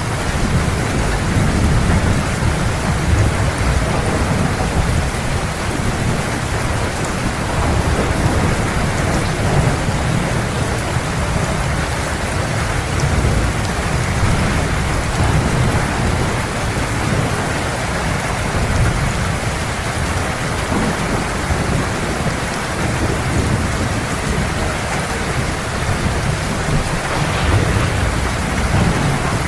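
Heavy rain falling steadily, with a low, continuous rumble of thunder underneath.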